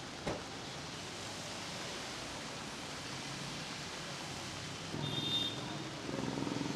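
Heavy rain falling, a steady hiss. There is a short knock just after the start, a brief high tone about five seconds in, and louder low sounds near the end.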